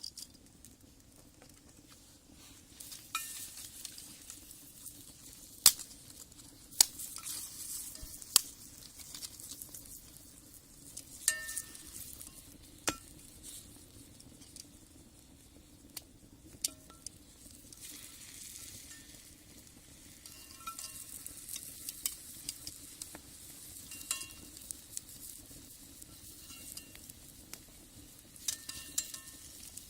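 Food sizzling in a cast-iron skillet over a wood fire, with scattered sharp pops and a few short metallic clinks.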